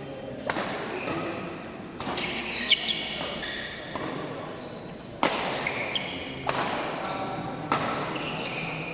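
Badminton doubles rally: sharp racket strikes on the shuttlecock every second or so, with shoes squeaking on the court floor between hits.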